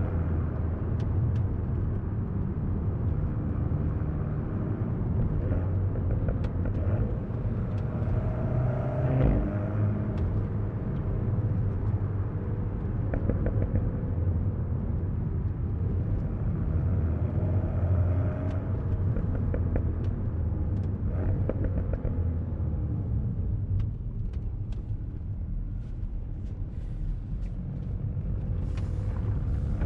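Alpine A110 S's turbocharged four-cylinder engine and road noise on the move. The engine note rises and falls a few times as the car accelerates and eases off, then revs up near the end.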